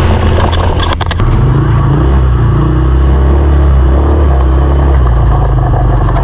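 Small single-cylinder off-road engine running under throttle, close to the microphone. A couple of clicks come about a second in, then the engine note steps up and holds steady.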